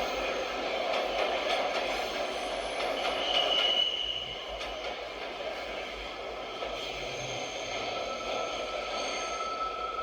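New York City subway train of the R142/R142A type running on the rails in the station, wheels clattering steadily. A brief high wheel squeal comes about three to four seconds in. The train then grows quieter, with a steady whine under the rolling noise near the end.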